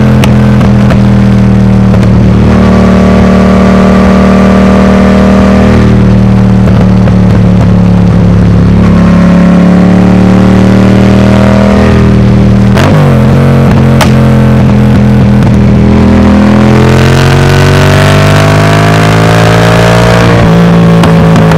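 Yamaha MT-07's 689 cc parallel-twin engine through a Mivv Delta Race full exhaust, accelerating through the gears. The pitch rises over several seconds, then drops at each shift, about three times. Two sharp cracks sound from the exhaust a little past halfway.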